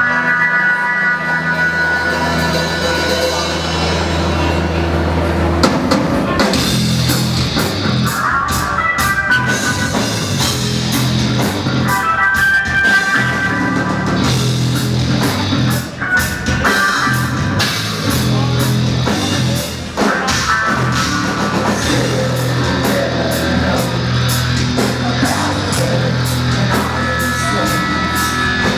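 Rock band playing live. Held bass and guitar notes open it, then about six seconds in the drums come in and the full band plays a heavy rock passage.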